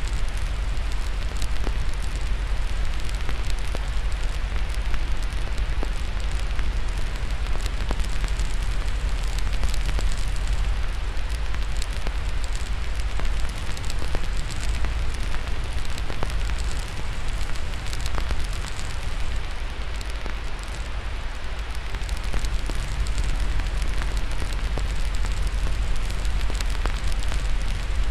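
Steady white-noise hiss layered with a crackling fire: many small scattered pops and snaps over a constant low rumble.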